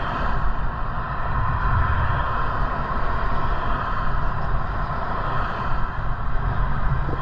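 Steady rushing wind and road noise on the rider's microphone while cycling, with a heavy low rumble.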